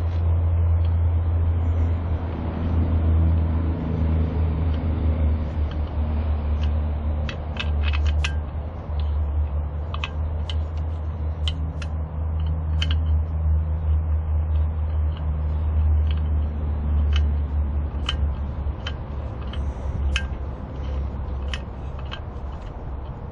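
Mooncool TK1 folding electric trike being ridden: a steady low rumble of wind and rolling noise, with scattered light clicks and ticks.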